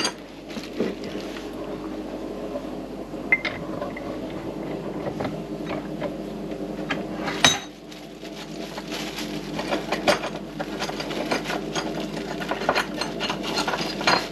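Electric grinder running steadily, left on unattended, under light metallic clicks and taps of tools working a retaining clip into a motorcycle fork leg, with one sharper click about halfway through.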